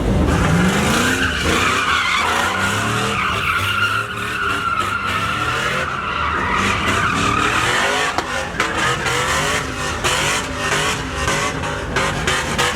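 Pickup truck doing a burnout: spinning rear tyres squeal steadily against the pavement while the engine is held at high revs. The engine climbs in pitch in the first second.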